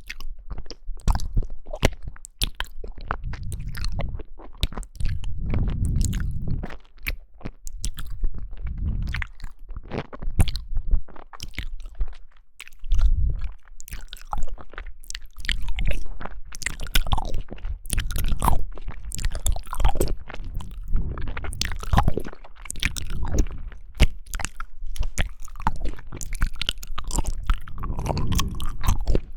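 A person chewing and biting jelly close to the microphone: a steady run of irregular sharp clicks and wet mouth sounds.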